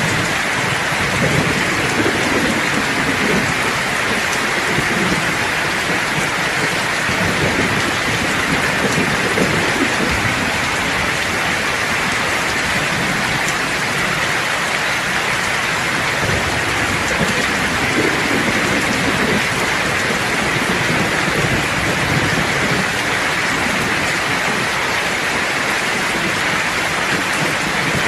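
Steady heavy rain, with low rolling thunder rumbling in the background, swelling over the first ten seconds or so and again about two-thirds of the way through.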